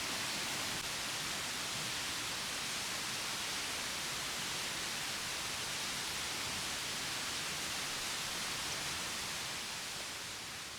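Steady rushing of a mountain stream, an even hiss of water that fades out near the end.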